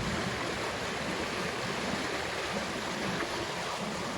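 Creek water running, a steady rushing noise with no breaks.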